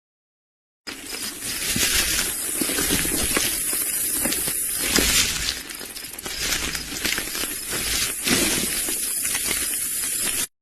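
Rough, crackling noise like rustling or wind on the microphone, with a faint, thin, steady high whine of insects running through it. It starts and stops abruptly.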